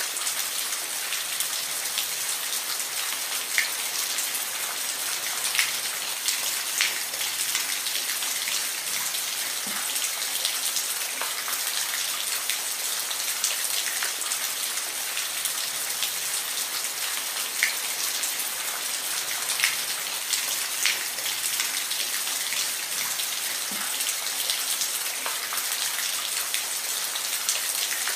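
Steady rain falling, an even hiss with individual drops ticking sharply on a hard surface now and then.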